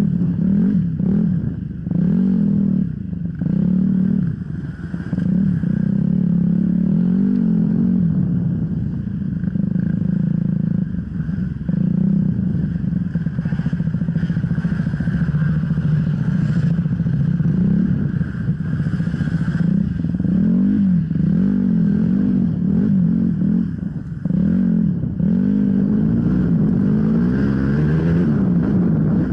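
Enduro motorcycle engine under hard, changing throttle on an off-road course. Its pitch rises and falls over and over, about once a second at times, as the throttle is opened and closed.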